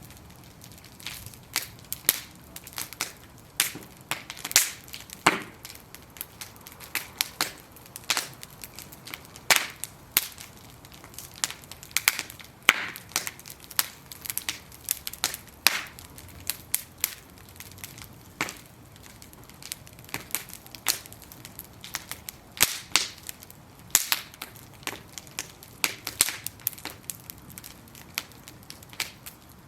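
Wood-plank bonfire crackling, with frequent sharp irregular pops and snaps over a faint hiss of the flames.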